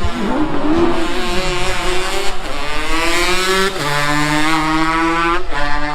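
A sprint-race engine accelerating hard, its pitch climbing and dropping back at three gear changes as it pulls away.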